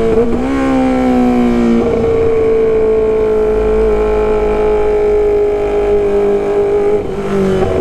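Kawasaki ZX-25R's 250 cc inline-four engine and exhaust running under way, the pitch sliding slowly down, with sudden pitch changes at gear shifts near the start, about two seconds in, and near the end. Wind rumble underneath.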